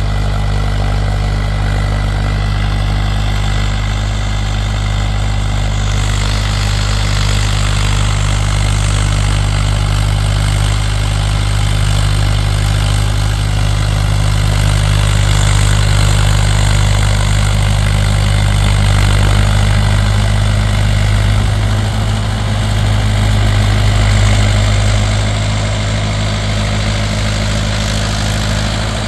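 Mahindra 575 DI XP Plus tractor's four-cylinder diesel engine running at a steady speed.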